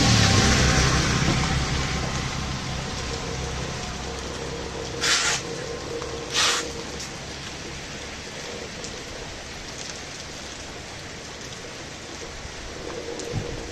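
Heavy rain falling steadily. A vehicle's low rumble fades away over the first few seconds, and two short hissing bursts come about five and six and a half seconds in.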